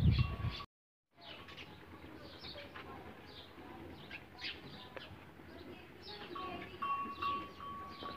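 Small birds chirping: many short, quick, falling chirps over a quiet background. A loud low sound breaks off abruptly under a second in, and a thin steady tone with little rising blips comes in a few seconds before the end.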